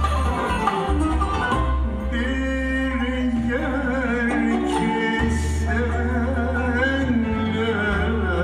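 Turkish song: a voice singing a wavering, ornamented melody over instrumental accompaniment with a sustained low bass.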